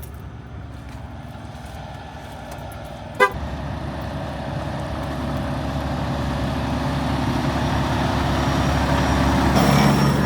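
Motor vehicle running, growing steadily louder, with a short sharp sound about three seconds in and a steady horn-like tone joining near the end.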